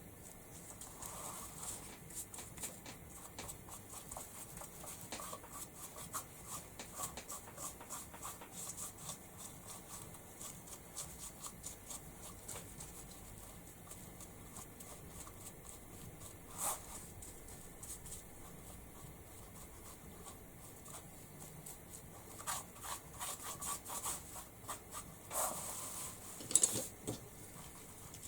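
Paint being blended on a wooden chopping board: quick rubbing and dabbing strokes, many short scrapes and taps in fast runs.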